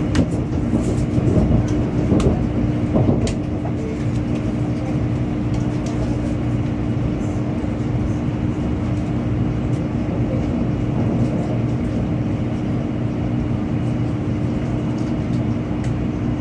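Shinkansen bullet train running, heard from inside the passenger cabin: a steady rushing noise over a constant low hum, with a few light clicks in the first few seconds.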